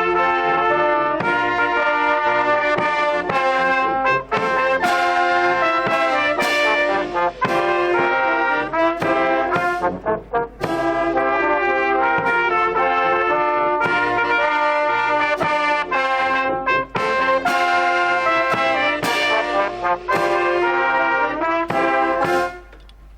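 Brass band playing a tune, with clear note changes throughout; the music stops near the end.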